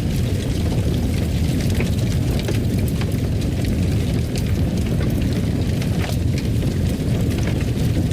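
Wood fire crackling in a fireplace: a steady low rumble of burning with irregular small pops and crackles scattered through it.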